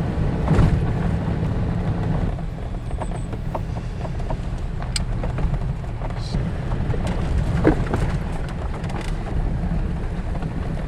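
Jeep driving along a rough forest road: a steady low rumble of engine and tyres, with a few scattered clicks and knocks.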